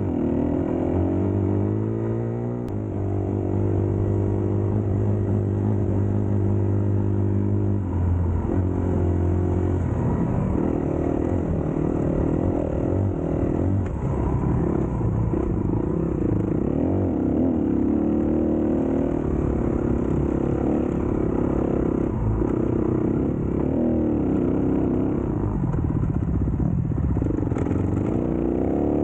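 Dirt bike engine running under load. Its pitch holds steady for a few seconds, then rises and falls with throttle and gear changes.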